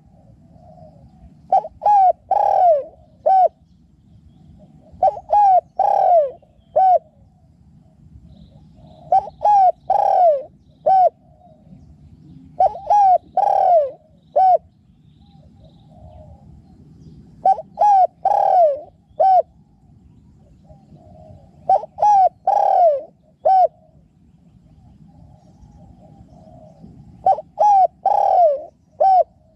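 Spotted dove cooing: a phrase of about four notes, two short coos, a loud drawn-out falling coo and a short closing note, repeated roughly every four seconds, seven times. Fainter cooing sounds in the gaps between phrases.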